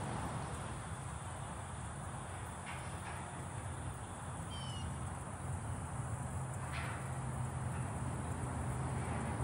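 Steady low hum with hiss, and about halfway through a bird's short high chirping call of a few quick falling notes. Two faint clicks, one early and one later.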